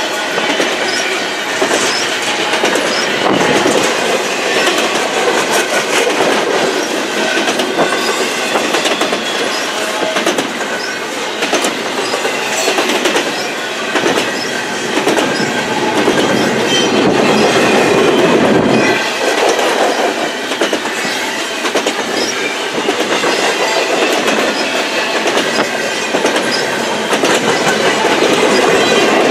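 Double-stack intermodal train of container well cars rolling past close by: a steady clatter of steel wheels over the rail joints, with short squeals from the wheels.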